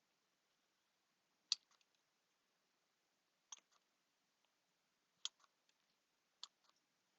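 Scissors snipping: four sharp snips about two seconds apart, each followed by one or two fainter clicks of the blades.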